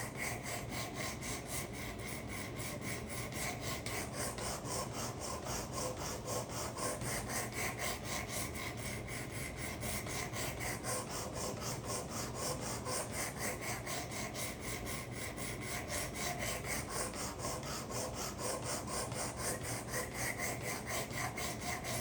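Abrasive stone of a Work Sharp guided knife sharpener rasping back and forth along a karambit's blade edge in even strokes, about two to three a second, raising a burr.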